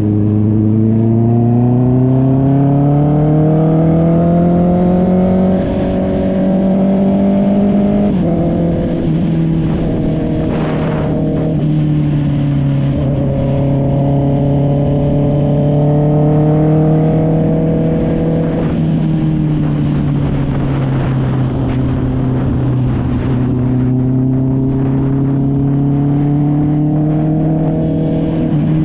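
Honda CB650R inline-four engine through an SC Project aftermarket exhaust, under way: it pulls with rising pitch for about eight seconds, drops suddenly as it shifts up, runs fairly steady for a while, then climbs again near the end.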